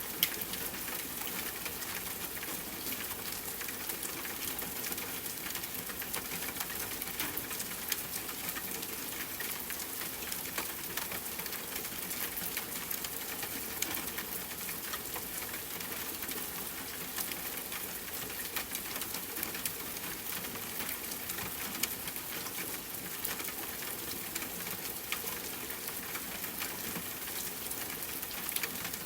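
Steady soft rainfall mixed with the pops and crackles of a wood fire, with a louder pop just after the start.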